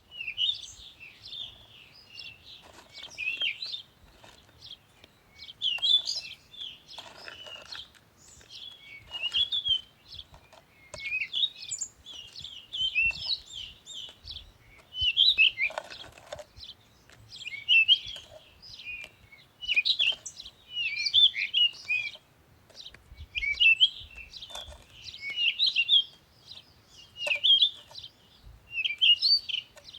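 Small songbirds chirping and warbling in quick bursts every second or two, with a few faint knocks underneath.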